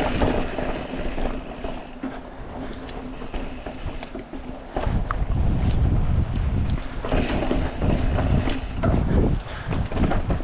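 Wind buffeting the microphone as a mountain bike rolls along a rocky single-track trail. The buffeting turns much heavier and louder about five seconds in.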